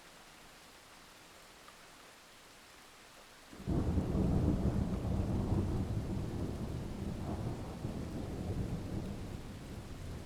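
Steady rain, then a thunderclap about three and a half seconds in: a sudden loud, deep rumble that slowly dies away over several seconds.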